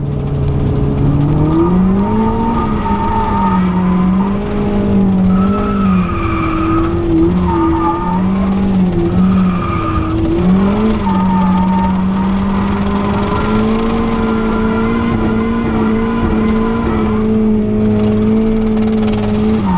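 Turbocharged 1990 Mazda MX-5's 1.6-litre four-cylinder engine held at high revs through a drift, heard from inside the cabin. The pitch climbs early on, wavers and drops briefly a few times as the throttle is worked, then holds high and steady, with the tyres squealing as the car slides.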